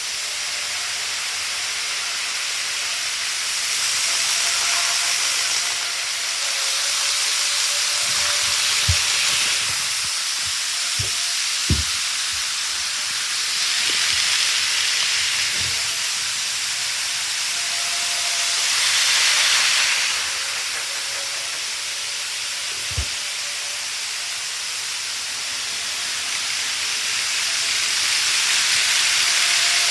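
Model railway train running on its track: a steady hissing rumble that swells louder every few seconds as it comes by, with a few short clicks and knocks.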